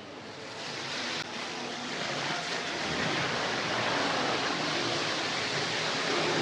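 Steady rushing noise of a large indoor waterfall, growing louder over the first two seconds and then holding steady.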